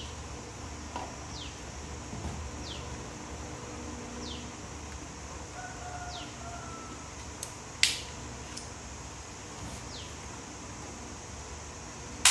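Birds calling in the background: short falling chirps repeating every second or so, and a faint drawn-out call around the middle. Two sharp clicks stand out, the louder one right at the end.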